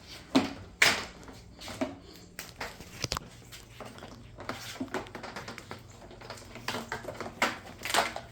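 Irregular clicks, knocks and light clatter of hard plastic parts and equipment being handled and set down, over a faint steady low hum.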